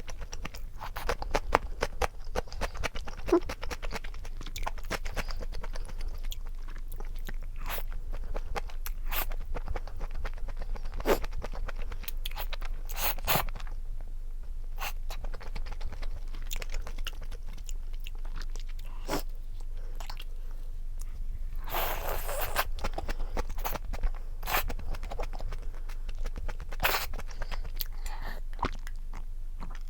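Close-miked mukbang eating sounds: a person chewing and crunching food, with many small wet clicks and a longer noisy stretch about two-thirds of the way through.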